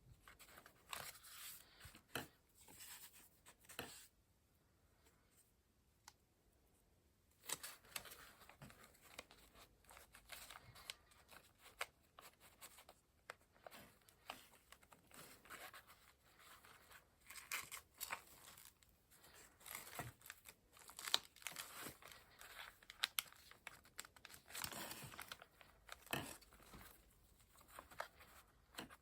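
Faint paper handling during junk journal crafting: short, scattered rustling, crinkling and tearing of paper, with a quiet pause of a few seconds about four seconds in.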